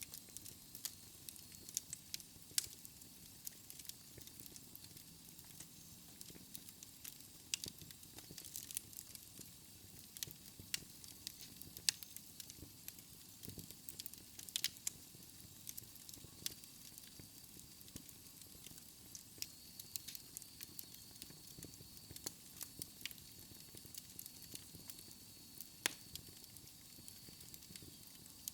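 Wood fire crackling, with irregular sharp pops and snaps over a soft hiss. A faint high whistle comes in about halfway through.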